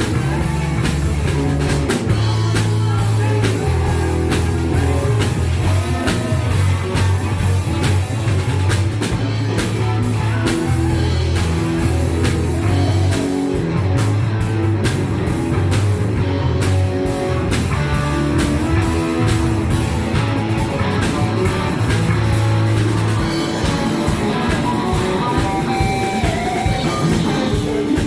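Rock band playing live, with electric guitar and drum kit and steady low bass notes that change every second or two.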